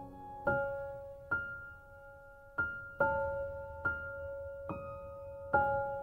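Slow, gentle piano background music: single notes struck roughly once a second, each left ringing and fading.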